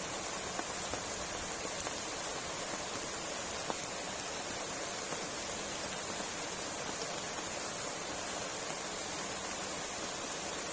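Steady rain falling: a continuous even hiss with scattered sharp drop ticks.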